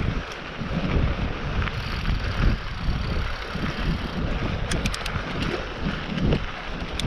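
Wind buffeting the microphone over the rumble of mountain bike tyres on a dirt trail during a downhill run, with a few quick rattling clicks about two-thirds of the way through.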